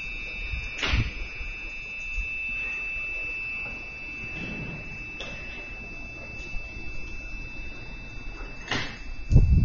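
Electric commuter train standing at a station platform, with a steady high-pitched tone held over a low rumble. A sharp click comes about a second in and another near the end, followed by heavy low thumps.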